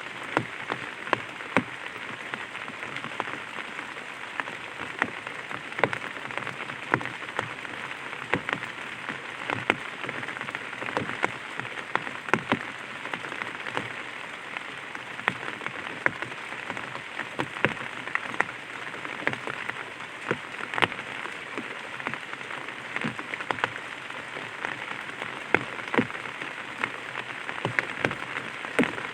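Light rain falling on an umbrella: a steady hiss of rain with frequent sharper, irregular drop taps on the canopy.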